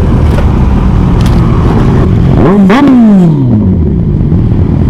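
Kawasaki 1000 inline-four motorcycle engine running on the road. About two and a half seconds in, the revs rise sharply and then fall away steadily as the bike slows.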